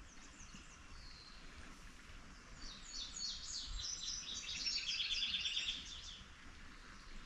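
Birds singing and chirping, with a dense run of rapid high chirps from about a third of the way in to a little past the middle, over faint steady background noise.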